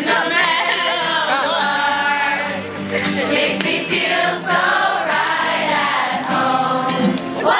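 A group of campers singing a song together, many voices at once.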